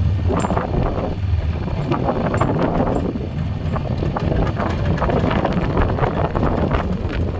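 Four-wheeler engine running while it pushes a plow through snow, with wind buffeting the microphone in uneven gusts.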